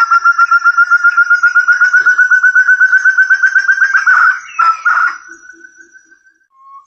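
Forest partridge (burung terung) call used as a lure: a fast run of clear whistled notes, about ten a second, slowly rising in pitch. About four seconds in it breaks into a few louder, uneven notes, then trails off and starts again right at the end.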